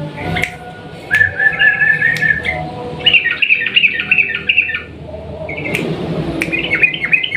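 Sooty-headed bulbul (trucukan) singing in three bursts of rapid, warbling phrases, each about one and a half seconds long, with a few sharp clicks between them.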